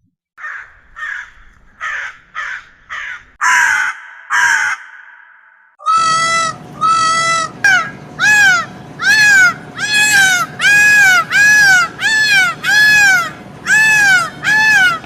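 Crow cawing: about seven harsh caws in the first five seconds. From about six seconds a peacock takes over with a fast series of about thirteen loud, clear calls, each rising and falling in pitch.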